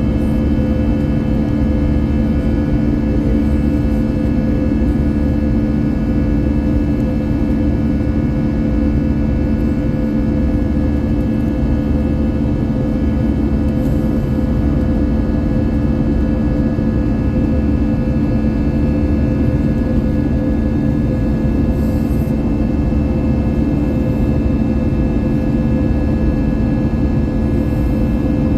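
Airbus A321's jet engines running steadily, heard from inside the passenger cabin as a constant rumble with several steady hums and whines over it.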